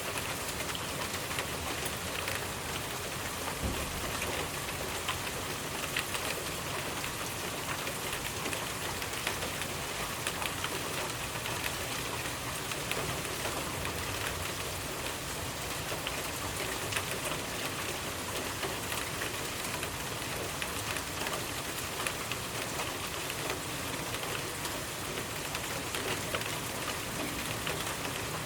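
Steady rainfall, a continuous hiss of rain with many individual drops pattering on surfaces.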